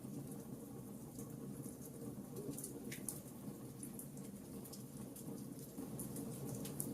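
Campfire crackling: burning wood giving off irregular sharp pops and snaps, one stronger pop about three seconds in, over a steady low rumble.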